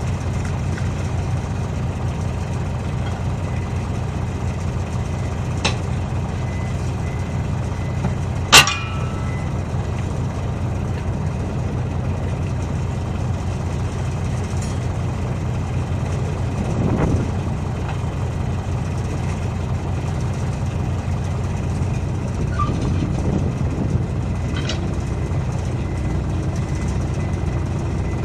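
Heavy diesel engine running steadily at idle, with one sharp metallic clang that rings briefly about eight seconds in and a few fainter knocks.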